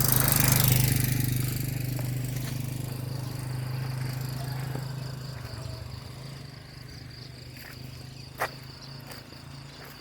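A small engine hum, loudest just after the start and fading away over several seconds, with a steady high insect trill coming through as it dies down. A single sharp click near the end.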